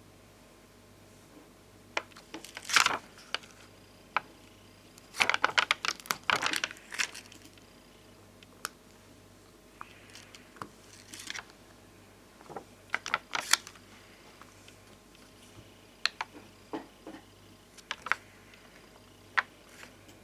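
Irregular clicks and taps from handling glossy, domed Bonbon Drop stickers and ohajiki stickers on their sheets, with quick clusters of tapping about two seconds in, from five to seven seconds, and around thirteen seconds, and single clicks between.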